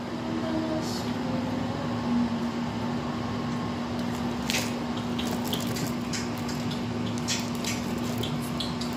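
Wet chewing and lip-smacking of a mouthful of pasta in tomato sauce, close to the microphone, with a run of short sharp mouth clicks and smacks from about four and a half seconds in, over a steady low hum.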